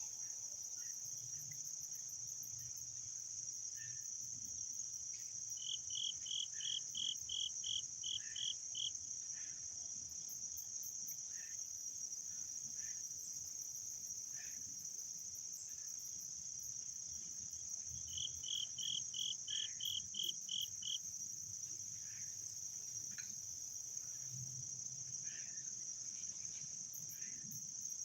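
Steady, high-pitched chorus of crickets or other singing insects. Twice, a run of about ten evenly spaced high notes at about three a second cuts through, with scattered faint short chirps between.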